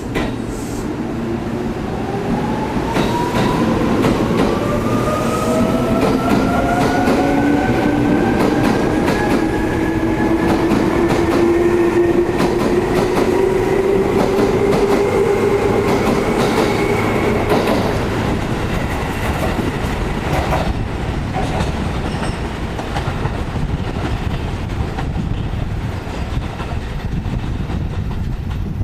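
Electric train accelerating out of the station, its traction motors giving a whine that rises steadily in pitch for the first 18 seconds or so, over the clatter of the wheels on the rail joints. The whine fades as the train draws away.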